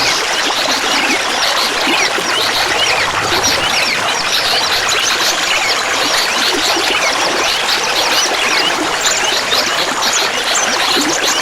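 Clear water babbling and trickling steadily, dotted with many small quick plinks from bubbles and droplets.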